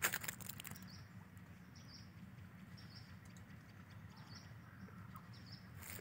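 A small bird calling faintly with short, high chirps about once a second, over a steady low rumble. Right at the start comes one crunch of a footstep on dry leaves.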